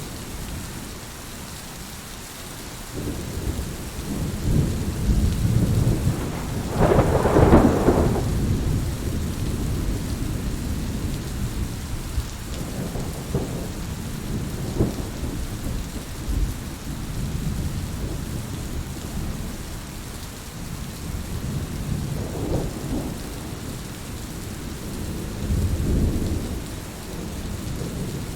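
Heavy rain falling steadily, with low rolling thunder. The loudest, sharpest peal comes about a quarter of the way in, and fainter rumbles follow near the middle and near the end.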